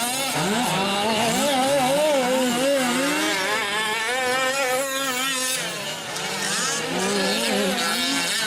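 Several 1/5-scale gas RC trucks' small two-stroke engines racing at once, their overlapping pitches rising and falling as they rev up and back off.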